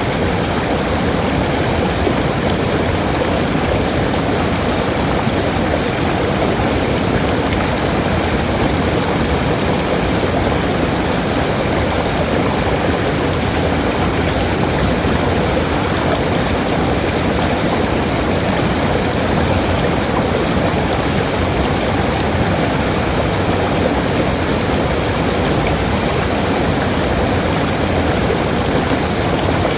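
Waterfall: water falling and rushing in a steady, dense roar that holds constant in level.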